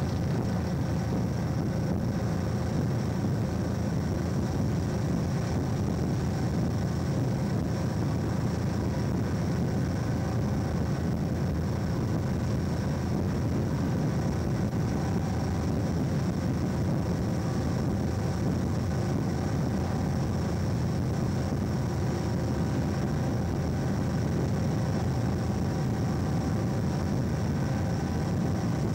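Hastings diesel-electric multiple unit running at speed, heard from an open window: a steady low rumble of the train under way, with no change in pace.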